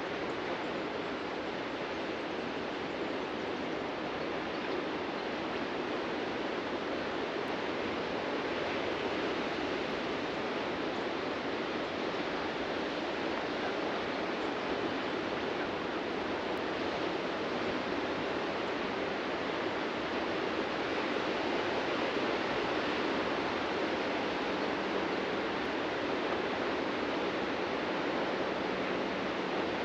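Ocean surf breaking on a beach: a continuous wash of wave noise that swells a little past the middle.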